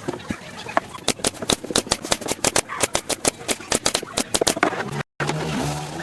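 A fast run of sharp knocks, about six a second, which stops shortly before the end. After a brief break, a steady low drone follows.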